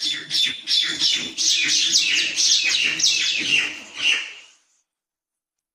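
Small birds chirping: many short, high, downward-sweeping chirps in quick overlapping succession, cutting off suddenly about four and a half seconds in.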